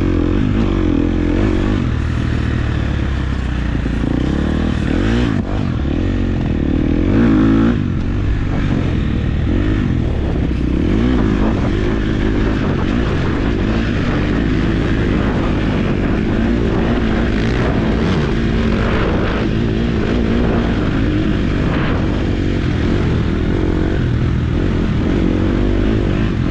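Four-stroke motocross bike engine being ridden, revving up and dropping back over and over as the throttle opens and closes.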